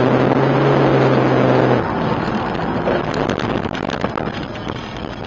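Vehicle engine running at a steady pitch over road noise, stopping about two seconds in; then scattered clicks and knocks over continuing road noise.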